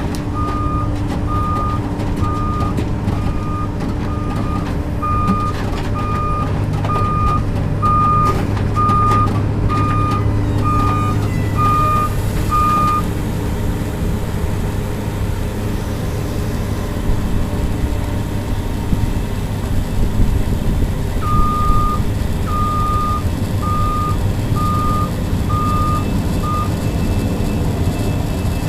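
Komatsu PC200 excavator's diesel engine running steadily under load, with its travel alarm beeping about once a second while the machine tracks. The beeping stops about 13 seconds in and starts again for about five seconds near the end.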